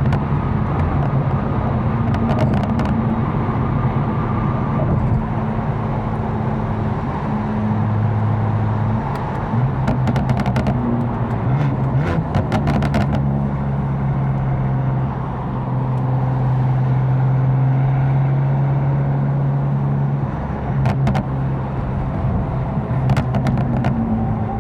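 Tuned BMW M4 engine droning steadily while driving, its pitch stepping a few times, over road noise, with a few scattered short clicks.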